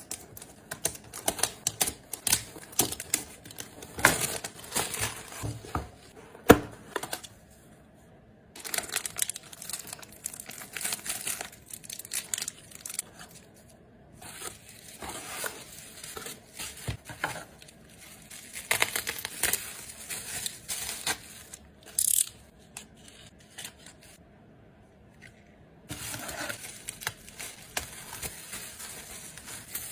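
Close-up handling of photocard packaging: crinkling and tearing with small clicks and taps, in bursts broken by brief pauses.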